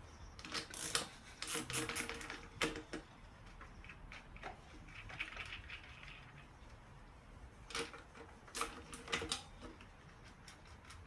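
Metal hand tools clicking and clinking against the motorcycle's rear-wheel parts in bursts of sharp clicks, some with a short metallic ring, during a rear tyre change on an off-road bike.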